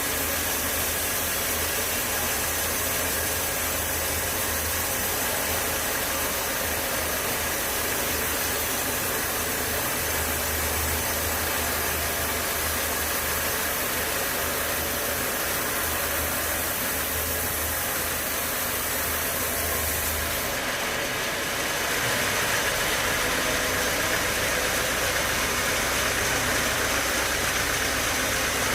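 Sawmill machinery running steadily with a dense, even mechanical noise. About 21 seconds in, a low hum drops out, and the sound then turns slightly louder and brighter.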